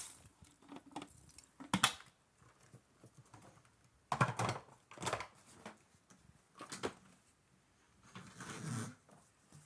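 Irregular handling noises: scattered short rustles and clicks, with a longer scraping swish near the end. No vacuum is running.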